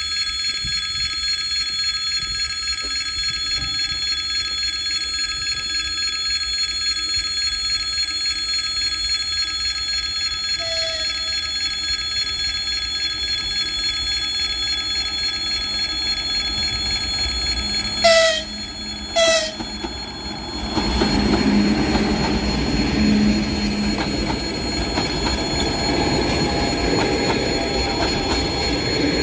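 Passenger train approaching behind an EP2K electric locomotive, which sounds its horn in two short blasts about 18 seconds in, after a faint short blast near 11 seconds; from about 20 seconds the locomotive and coaches roll past with loud wheel and rail noise. A steady high whine of several tones runs under the first part.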